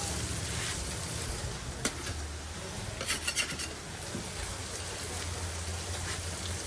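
Food frying with a steady sizzle over a steady low hum, with a sharp clack about two seconds in and a quick run of clicks and clinks from kitchen utensils a little later.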